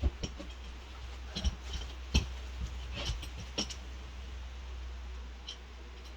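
Scattered light clicks, taps and clinks, most of them in the first four seconds, over a steady low hum.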